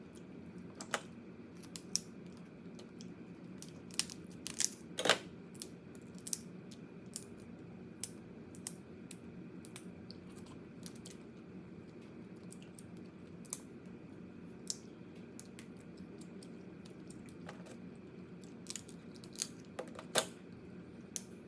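A person eating crab: sharp, irregular clicks and crunches of shell being cracked and chewed, with small clusters about four seconds in and near the end, over a steady low hum.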